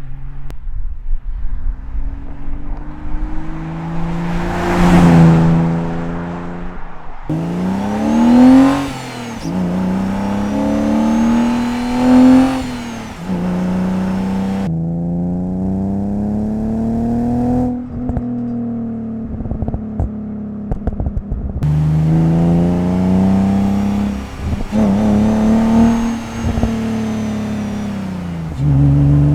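BMW E46 330i's M54 straight-six running through a Scorpion stainless-steel cat-back exhaust, accelerating and easing off again and again, the engine note rising and falling. The sound is made up of several short takes cut together.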